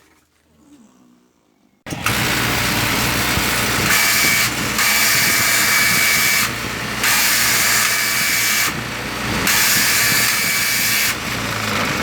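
An 8-inch straight-knife fabric cutting machine switched on about two seconds in and running loudly, with a harsher high-pitched hiss coming and going four times over the motor.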